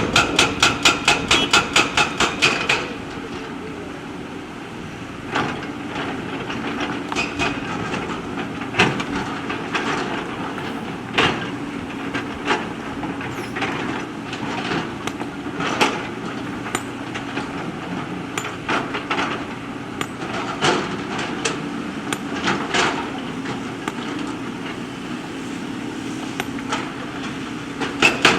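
JCB backhoe loader at work: a rapid, even hammering of about five blows a second for the first three seconds, which starts again right at the end. In between, the diesel engine runs steadily under scattered knocks and clanks of stones and the bucket.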